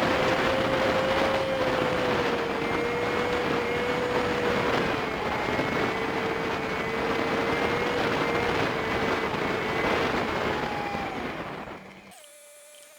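Honda Super Cub 50 on the move, heard from its dashcam: steady engine drone under a thick rush of wind and road noise. About twelve seconds in it cuts abruptly to a much quieter, steady hum.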